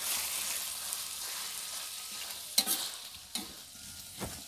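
Salted squid frying in hot oil, a steady sizzle that slowly fades. A few sharp knocks of stirring in the pan come in the second half.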